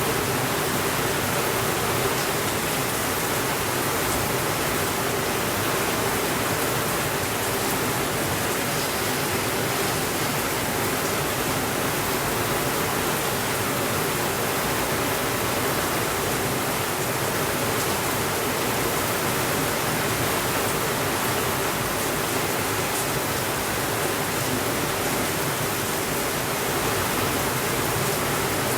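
Heavy rain falling steadily, a dense even hiss with an occasional faint tick.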